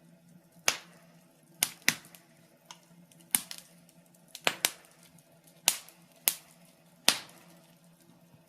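Wood fire in a fireplace crackling: sharp, irregular pops and snaps, roughly one a second, over a faint steady low hum.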